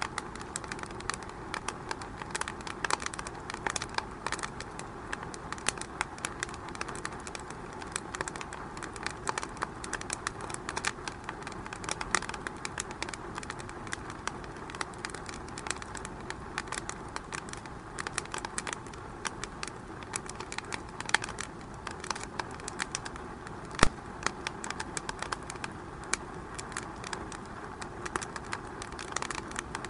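Wood fire burning in a fireplace, crackling steadily with frequent small pops and one sharper pop about three-quarters of the way through.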